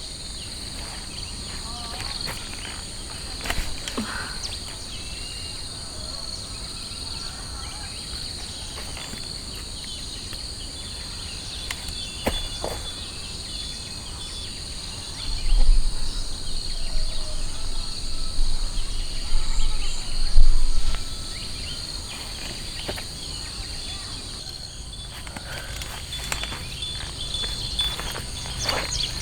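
Steady chorus of insects, two high shrill tones held without a break. Low rumbling knocks come through for several seconds about halfway in.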